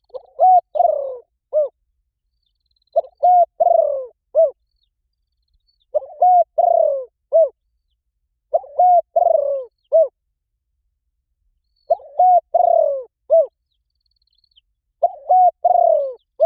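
Spotted dove cooing: a short phrase of four or five quick, low coos, repeated about every three seconds, six times over.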